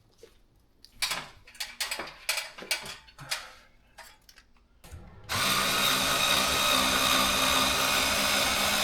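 A few clicks and rattles of parts being handled, then a power drill-driver runs steadily at one speed for the last few seconds, turning the screws of a ceiling light fixture.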